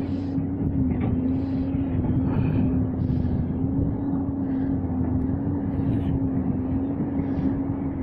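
A steady engine drone holding one pitch, over a constant rush of wind and surf.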